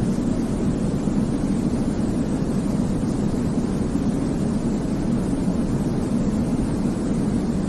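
Steady, unchanging white noise for baby sleep: a deep, even rumble with most of its weight low down and only a soft hiss above it.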